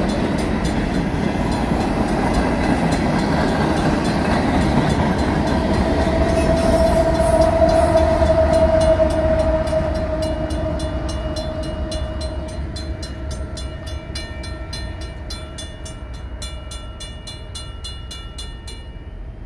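Tail end of a long freight train rolling through a grade crossing: steel wheels rumbling on the rails, then the rear diesel locomotive passing with a steady engine drone that is loudest about 6 to 10 seconds in and then fades. The crossing's mechanical bell rings in rapid, even strokes, heard plainly as the train noise dies away, and stops shortly before the end.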